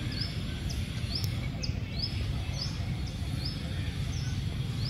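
A small bird chirping over and over, a short high note about every three-quarters of a second, over a steady low rumble.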